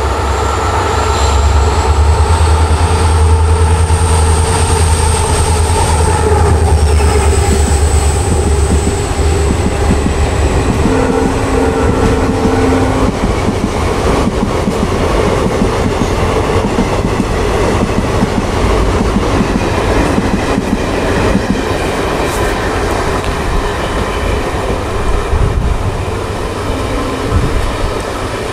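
WDP4D diesel-electric locomotive, with an EMD two-stroke engine, passing at speed. For about the first eight seconds there is a heavy engine rumble and a high whine. Then the passenger coaches run past with a steady clickety-clack of wheels on the rails, easing off a little near the end.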